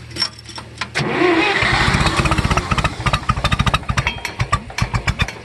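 1964 John Deere 1010 tractor engine cold-starting on fuel poured into the intake: it cranks and catches about a second in, then runs with a rapid, uneven chug whose beats spread out toward the end.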